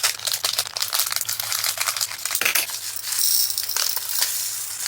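Tiny resin diamond-painting drills pouring and rattling into a small plastic storage container as a rapid, irregular patter of clicks, with a denser rush about three seconds in.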